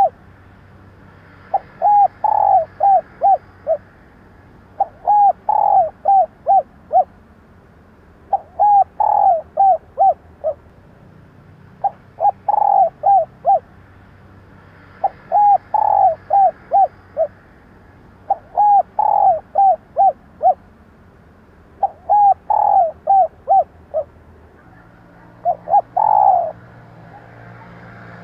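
Female spotted dove cooing: repeated phrases of four or five short, mellow notes, one phrase every three to four seconds, about eight phrases in all. This is the hen's call that keepers play to excite male decoy doves.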